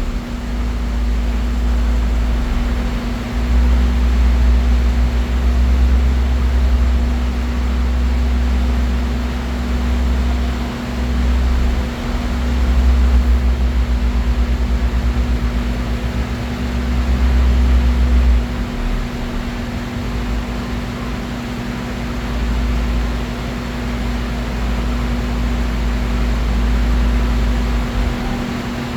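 A two-stroke chainsaw engine running steadily, with a low rumble that swells and dips.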